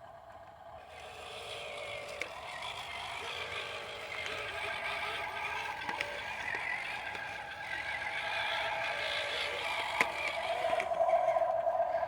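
Electric motors of a Huina 1573 radio-controlled toy dump truck whining, starting about a second in and growing louder, with a few sharp clicks.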